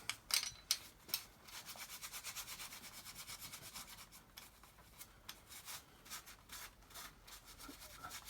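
Wire wool with wax being scrubbed over a rusty metal toolbox handle in quick back-and-forth strokes, with a few sharp clicks in the first second.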